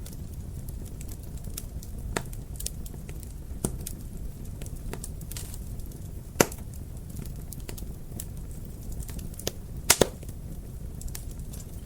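Wood fire in a fireplace crackling over a steady low rumble, with scattered sharp pops; the loudest is a single pop about six seconds in, and two come close together near ten seconds.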